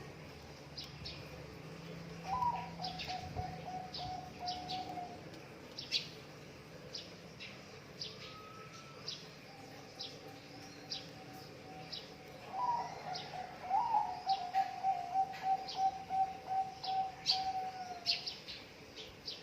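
Zebra dove (perkutut) song: twice, a note that starts higher and then runs on as a long, even, trilled coo, the second one longer, over many quick, high chirps from small birds.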